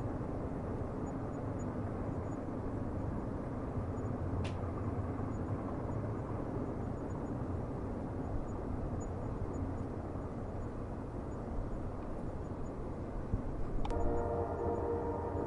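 Steady low rumble of a train running on the rails, with a short click about four seconds in. Near the end a train horn sounds, a held chord over the rumble.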